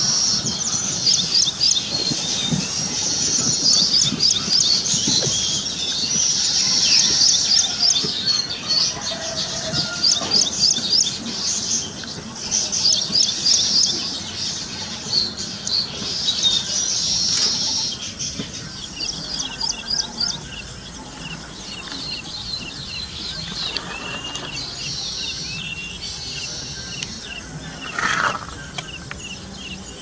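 A chorus of small birds chirping and chattering in dense, rapid high-pitched notes, thinning after about 18 seconds into a regular run of quick ticking notes. One louder, lower call comes near the end.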